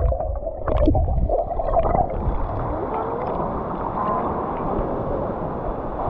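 Muffled water sound heard through a submerged action camera in shallow sea: sloshing and gurgling water, with a few short splashes in the first two seconds before it settles into a steady wash.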